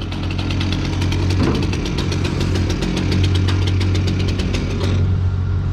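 An engine running steadily with a low hum, with a rapid, even ticking over it that stops about five seconds in.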